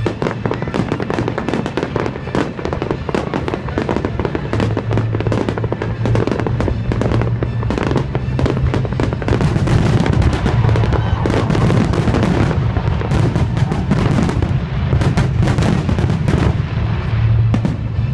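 Fireworks display: a dense, irregular run of bangs and crackles going off many times a second, with music playing underneath.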